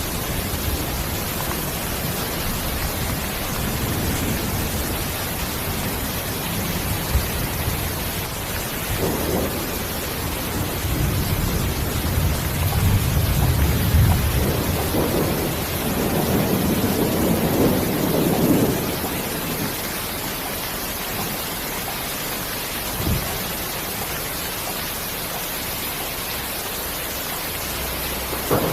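Steady rain hiss in a thunderstorm, with low rolling rumbles of thunder that swell through the middle and a short thump of thunder about three-quarters of the way through.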